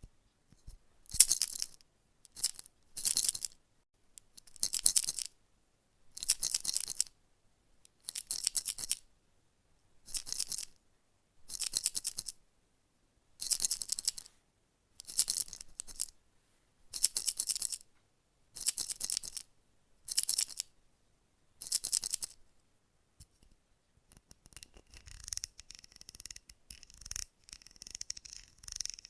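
Slow, even bristle brush strokes, one about every two seconds, each a short hiss. About two-thirds of the way through they give way to a steady, irregular crackling and scratching.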